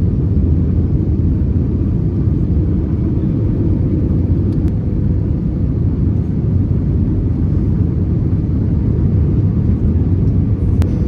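Airbus A321neo cabin noise: a steady low rumble of engine and airflow, with a faint constant hum, as the airliner descends toward landing.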